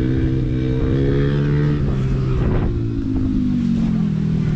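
Motorcycle engine running at a fairly even speed, then dropping in pitch over the last two seconds as it eases off.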